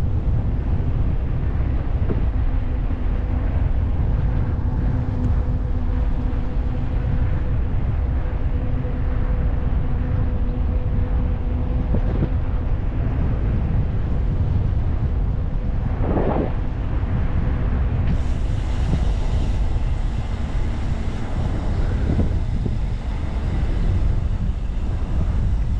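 Wind buffeting the microphone of a moving bicycle, a steady low rumble, with a faint steady hum through roughly the first half and a short knock a little past the middle.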